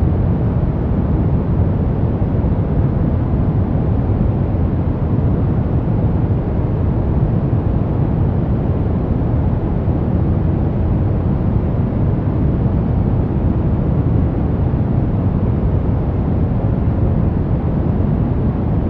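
Steady brown noise: a deep, even rushing hiss weighted to the low end, with no changes.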